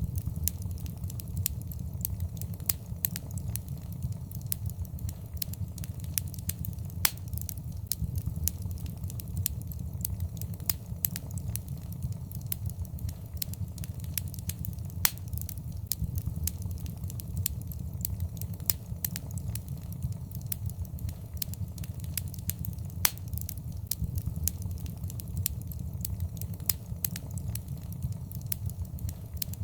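Wood fire in a fireplace crackling, with irregular snaps and a few louder pops over the steady low rumble of the flames.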